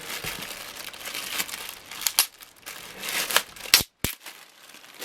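Plastic packaging crinkling and rustling as it is handled, with several sharp clicks, the loudest a little before four seconds in.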